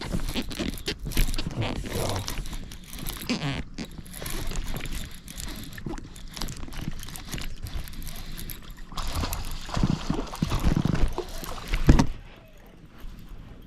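Water splashing and irregular knocks and clatter around a fishing kayak, loudest in a run of bursts near the end.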